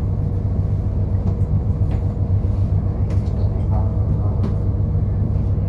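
Steady low engine and road rumble heard from inside a moving route bus, with a few short rattles.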